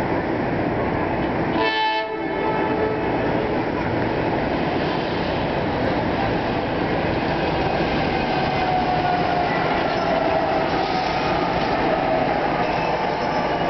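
NJ Transit Arrow III electric multiple-unit train approaching and passing close as it slows into the station: a steady rush of wheels on rail, with a faint whine from about eight seconds in.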